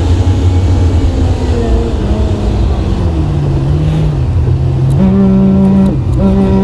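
Plow truck's engine running steadily while its salt spreader throws salt, the engine note dropping a little about halfway through. Near the end a loud, low, steady tone sounds twice, a long one then a short one, with faint ticking of salt alongside.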